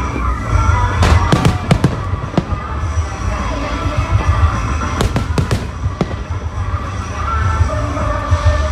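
Fireworks display: aerial shells bursting in quick clusters of sharp bangs, about a second in, again around two seconds, and again about five seconds in, over a continuous low rumble and crackle.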